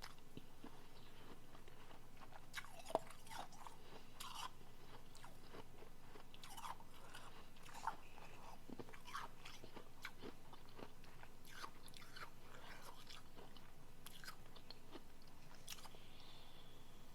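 Close-miked chewing and crunching of soft refrozen powdery blender ice, irregular crisp crunches throughout, with one sharp louder crunch about three seconds in.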